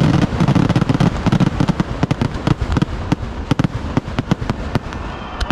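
Fireworks going off in a rapid, dense barrage of bangs and crackles over a low rumble. The barrage thins to scattered bangs near the end.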